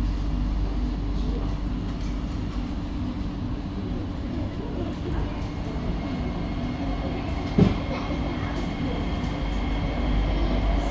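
SMRT C151A metro train heard from inside the car as it runs: a steady low rumble with a low hum, and one sharp knock about two-thirds of the way through.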